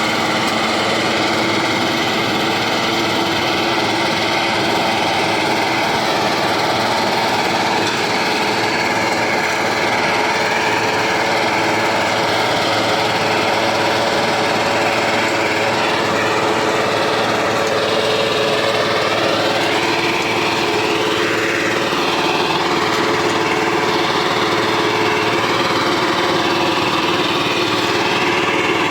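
Honda GX200 single-cylinder four-stroke engine running steadily on a ground roller, its pitch dipping and rising a little past the middle.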